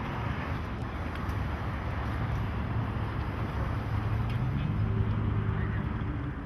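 Motorcycle engine running, getting a little louder and higher about two-thirds of the way in, over a steady outdoor background of crowd noise.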